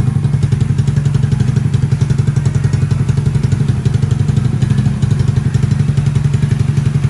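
A small motorcycle engine running steadily at idle, a fast, even pulsing over a strong low hum.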